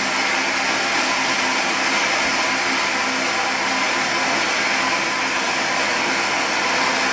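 Saeco XSmall Class's built-in ceramic conical burr grinder switching on and grinding coffee beans, a steady motor whir.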